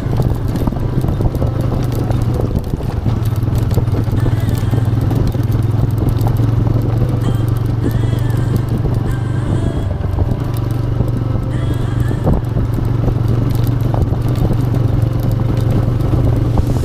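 TVS Raider 125's single-cylinder four-stroke engine running at a steady speed under way, with a constant low drone.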